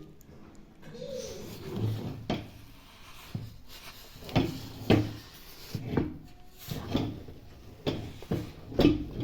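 Knife chopping through a pumpkin onto a wooden board: sharp, irregular knocks, about one a second, with the loudest near the end.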